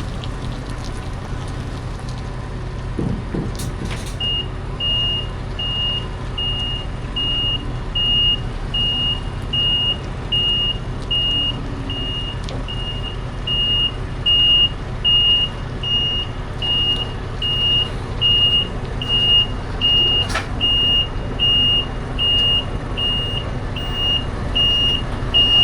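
Reversing alarm beeping evenly, a little under two beeps a second, starting about four seconds in, over the steady low running of a truck's diesel engine. A couple of short clicks come partway through.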